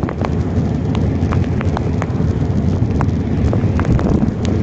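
Heavy rain: many sharp, irregular raindrop ticks striking close to the microphone over a steady low rumble of wind on the microphone.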